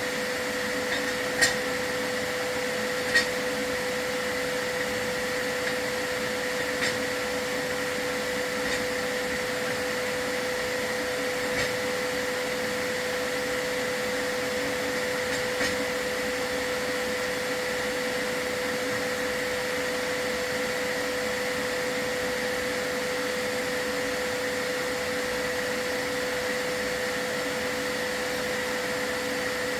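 A vacuum running steadily with an even hum, with a few sharp clicks, the two loudest in the first few seconds.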